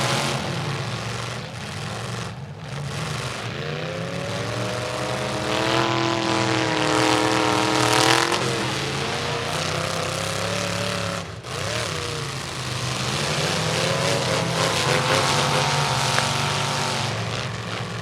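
Demolition derby truck engines running and revving hard over the steady drone of other engines. There is a long rev whose pitch climbs and falls around the middle, and another near the end.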